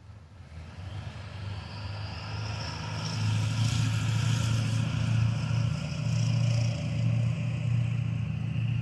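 Train approaching and passing, growing louder over the first three seconds and then holding steady: a locomotive's low engine drone with rail and wheel noise above it.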